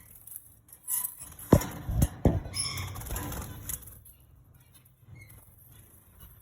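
Canaries moving about in their cage: three sharp thumps with a flutter of wings about a second and a half in, and a few short high chirps, then only faint rustling.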